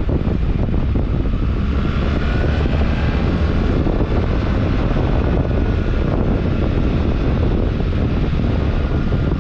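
BMW R1300GS Adventure's boxer-twin engine running steadily under way, heard from an onboard camera with heavy wind noise on the microphone.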